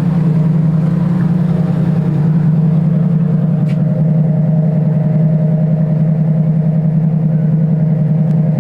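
Boat engine running at a steady speed, a loud low drone with a few steady higher tones over it.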